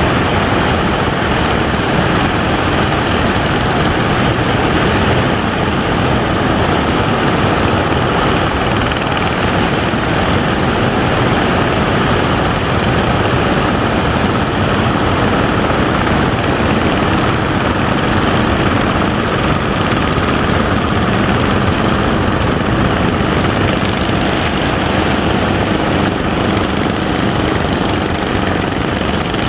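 Steady motor drone mixed with the hiss of wind and surf, running evenly throughout.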